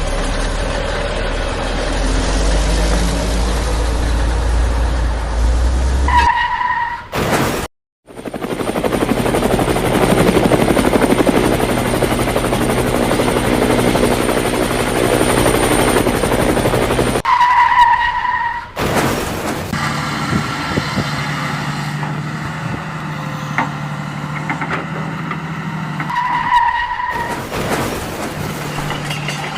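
Vehicle engine noise in several edited segments, broken by a brief dropout to silence about eight seconds in, with a short pitched blip at three of the joins.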